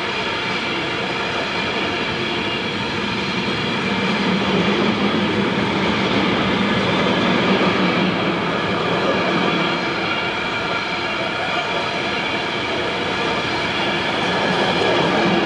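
Container freight train's wagons rolling past at speed: a steady noise of steel wheels on rail, with thin high ringing tones over it, swelling a little about four seconds in.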